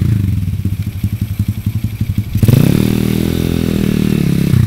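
Gio 125 pit bike's single-cylinder four-stroke engine running, then revving up sharply about two and a half seconds in and holding the higher revs.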